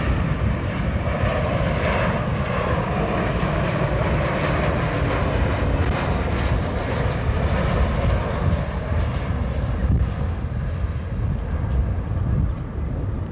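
Jet airliner's engines rumbling as the plane passes, loud and steady, with the higher hiss fading after about eight seconds.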